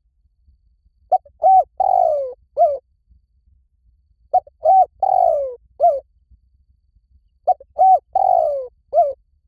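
Spotted dove cooing: three repeated phrases about three seconds apart. Each phrase is two short coos, a longer coo that falls in pitch, and a final short coo.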